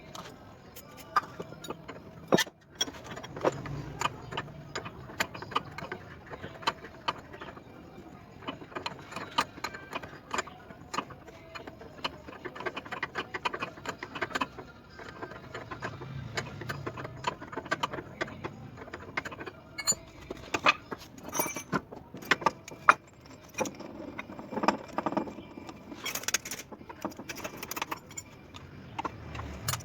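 Metal hand tools clinking, clicking and knocking on a Mitsubishi L300's steering linkage as the center arm, worn loose, is being taken off.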